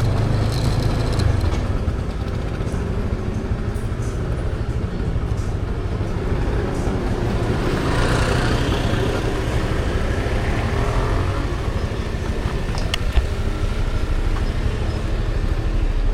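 Motor scooter running as it is ridden slowly into a parking spot, with street traffic around it: a steady, noisy rumble with no breaks.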